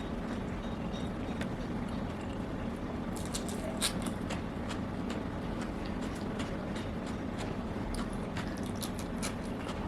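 Close-up eating sounds: chewing, with many short crisp clicks from about three seconds in, over a steady background hiss.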